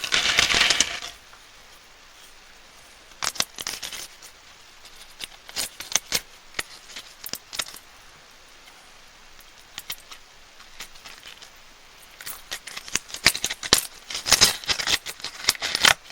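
Plastic candy wrappers crinkling and crackling as sweets are unwrapped and handled: a dense burst of crinkling at the start, scattered light crackles and taps through the middle, and denser crinkling again near the end.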